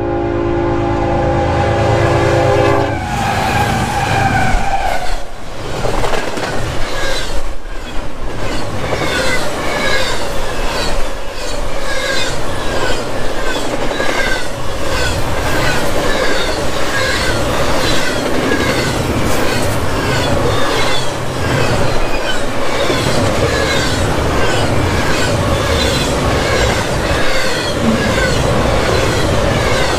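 A freight locomotive's horn sounds a chord for about three seconds as it approaches the grade crossing. Then the train passes close by: double-stack intermodal well cars roll through with a steady, rhythmic clickety-clack of wheels over the rail joints and intermittent wheel squeal.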